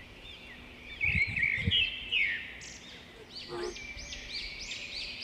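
Birds chirping throughout in quick, repeated rising-and-falling calls. A few dull thuds about a second in.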